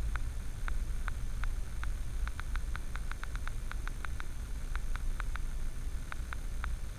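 Steady low rumble of a vehicle, recorded by a dashcam, with sharp irregular ticks, about five a second.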